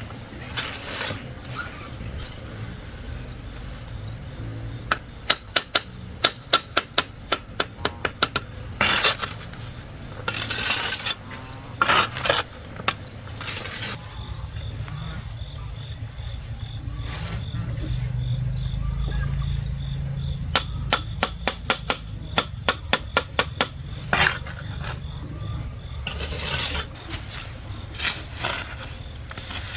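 Construction knocking: runs of quick, sharp strikes, several a second, around five to eight seconds in and again a little after twenty seconds, with scattered single knocks between. Under them sit a steady high thin tone and a low rumble.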